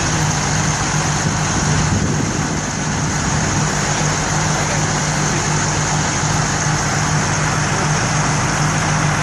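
A vehicle engine idling steadily, with a constant low hum under an even hiss of roadside noise.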